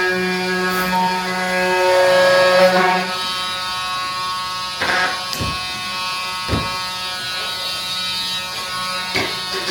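A steady electric buzz at one constant pitch, strongest for the first three seconds, with a few short knocks scattered through it.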